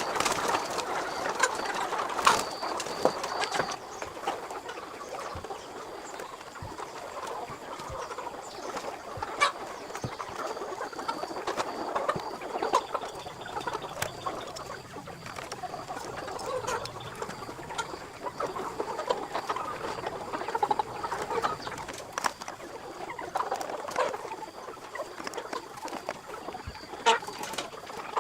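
A flock of chickens clucking continuously, a busy jumble of many birds, with occasional sharp clicks.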